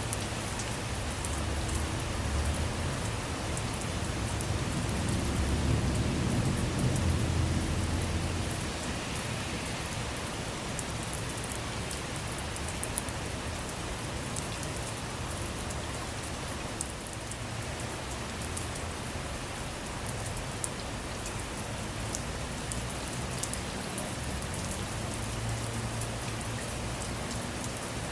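Rain falling steadily on a car, with scattered sharp drop ticks. A low roll of thunder swells about four seconds in and fades out by about nine seconds, and a fainter rumble comes near the end.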